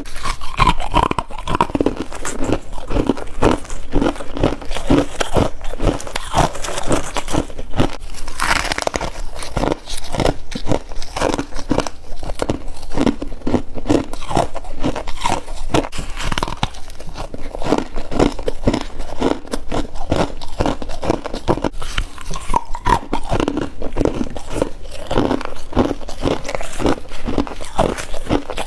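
A person biting and chewing humidifier freezer frost, a dense run of crisp crunches several a second, close to the microphone.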